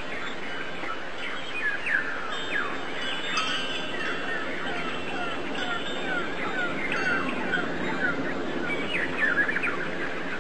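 Many small birds chirping and twittering, short quick calls overlapping throughout over a steady background hiss.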